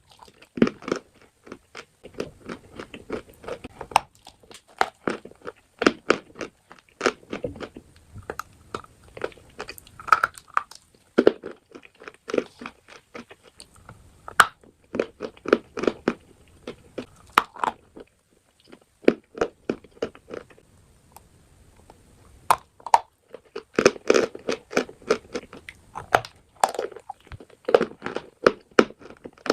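A person biting and chewing crunchy chalk and clay close to the microphone: a quick, irregular run of sharp crunches, with a brief pause about eighteen seconds in and busier crunching near the end.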